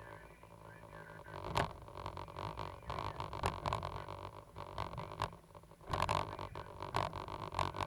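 Cat 320GC hydraulic excavator running, a steady engine drone with several sharp knocks and scraping as it works.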